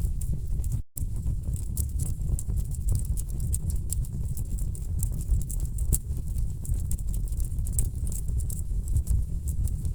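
Wood fire crackling and popping: many sharp, irregular crackles over a steady low rumble of burning logs. The sound cuts out completely for a split second just under a second in.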